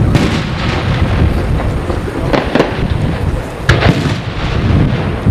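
Fireworks display: shells bursting in a string of booms over a continuous rumble and crackle, with sharp bangs a little over two seconds in and the loudest about three and a half seconds in.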